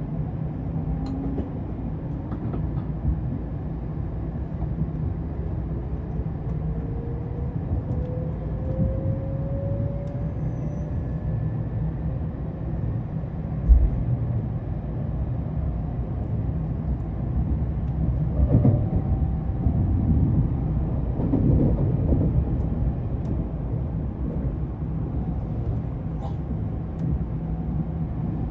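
Nozomi Shinkansen bullet train running as it gathers speed: a steady low rumble, with a thin tone rising slowly in pitch over the first several seconds. There is a single knock about fourteen seconds in.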